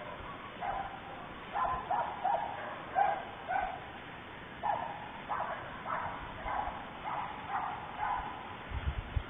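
Repeated short animal calls, about fifteen of them in quick uneven runs with a brief pause partway through. A few low thumps come near the end.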